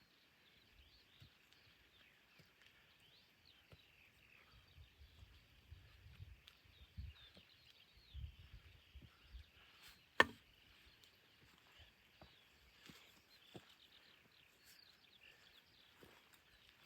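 Quiet outdoor ambience with faint high chirping throughout, soft low thuds and scattered small clicks, and one sharp click about ten seconds in.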